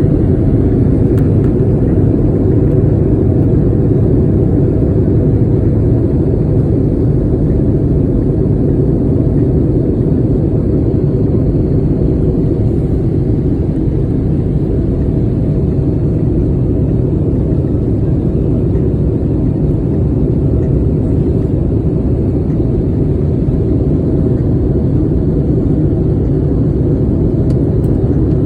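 Airplane cabin noise: a steady low rumble that holds at the same level throughout.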